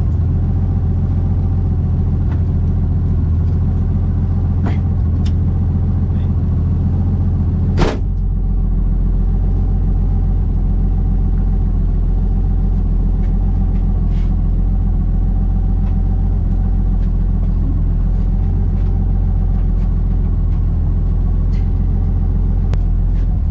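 The Nissan 240SX's swapped Toyota 1JZ straight-six idles steadily, heard from inside the cabin. A single loud thump comes about eight seconds in.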